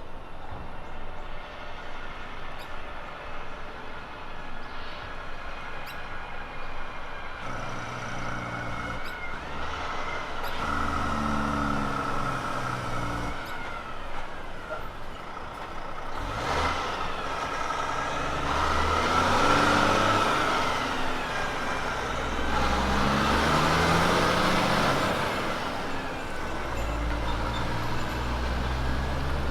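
A road train's diesel prime mover working up through the gears, its engine note climbing and dropping back with each change over the second half, with a high whine running alongside.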